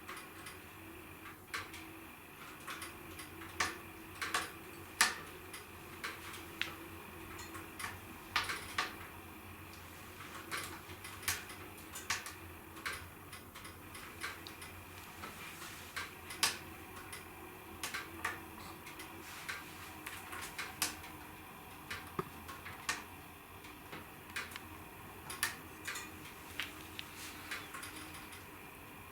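Wood fire crackling in a fireplace: irregular sharp pops and snaps, some louder than others, over a faint steady hiss.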